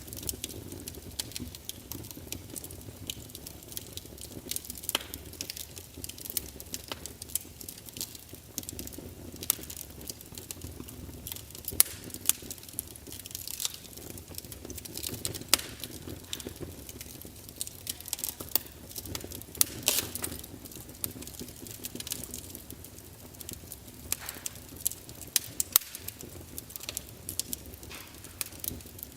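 Wood fire crackling, with irregular sharp snaps and pops over a low steady rumble.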